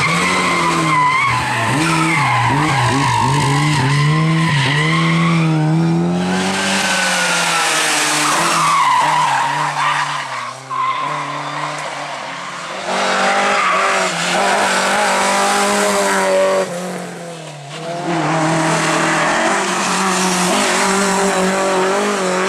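Rally cars driven hard, one after another: engines revving high and dropping with gear changes and lifts off the throttle, over tyres skidding and scrabbling for grip.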